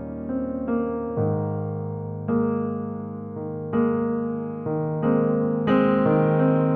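Piano music: a slow run of sustained notes and chords, each one struck and then fading.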